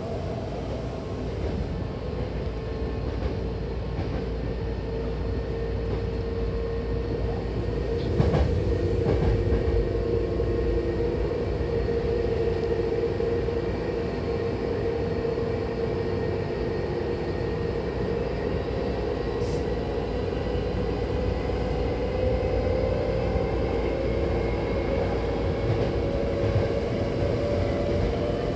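Hankyu electric commuter train running at speed, heard from inside the car by the doors: a steady rolling rumble with a steady whine, and one sharp knock about eight seconds in.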